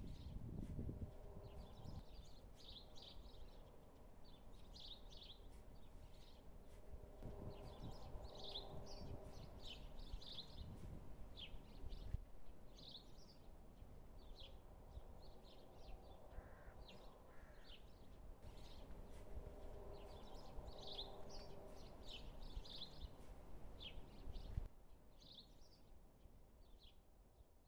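Small birds chirping faintly in quick, short, high calls, over a low outdoor rumble. The sound drops away in the last few seconds.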